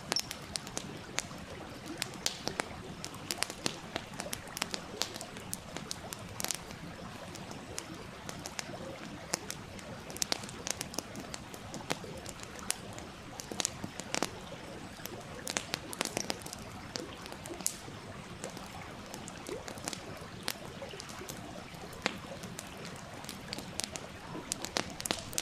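Wood campfire crackling with irregular sharp pops, over the steady rushing murmur of a stream.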